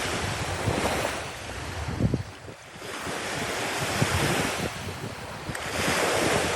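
Sea surf washing onto a beach, the hiss of the waves swelling and falling back in surges a few seconds apart, with wind buffeting the microphone.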